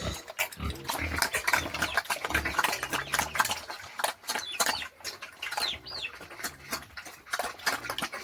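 Pigs grunting, with many sharp clicks and knocks throughout and a short high chirp near the middle.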